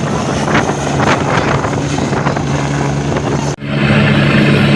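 Helicopter running steadily, a constant low drone with a hiss over it. There is a brief dropout about three and a half seconds in, and after it the drone is slightly louder.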